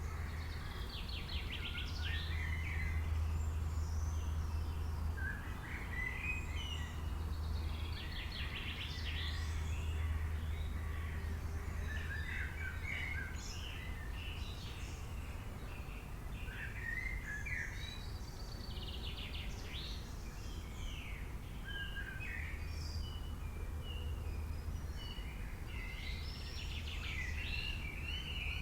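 Wild songbirds chirping and trilling, with several short calls and rapid pulsed trills overlapping, over a steady low hum.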